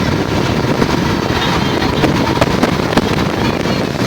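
Motorboat engine running steadily under wind buffeting the microphone, with a few faint, wavering high-pitched calls about one and a half seconds in and near the end.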